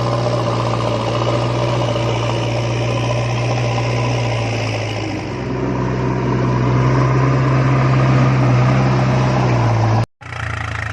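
Tractor engine running steadily, its pitch shifting slightly about halfway through. The sound cuts out for a split second near the end.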